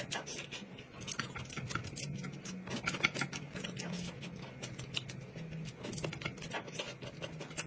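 Close-up eating sounds of a person chewing food, with many quick, irregular clicks and smacks.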